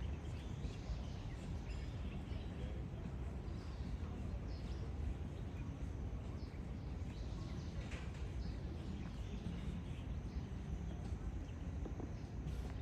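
Outdoor garden ambience: a steady low rumble with scattered faint bird chirps.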